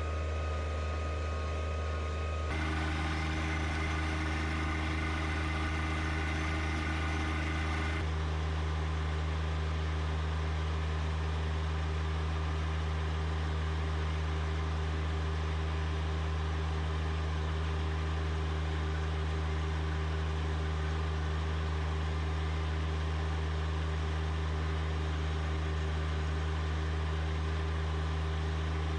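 A John Deere 1025R compact tractor's three-cylinder diesel engine running steadily. Its higher tones change about two and a half seconds in and again around eight seconds in.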